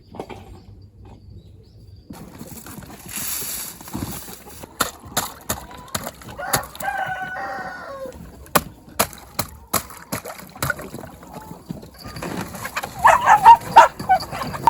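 A rooster crowing once, about halfway through, followed near the end by a run of loud, short chicken calls, with scattered sharp knocks.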